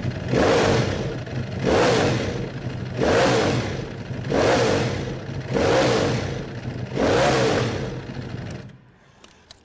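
Ducati Panigale V4's 1100cc V4 engine idling and revved through its exhaust, six sharp throttle blips about one every 1.3 seconds. The sound cuts off shortly before the end.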